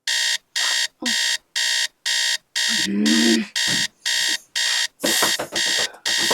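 Electronic alarm clock beeping insistently, about two beeps a second. A short voice sound comes through about three seconds in.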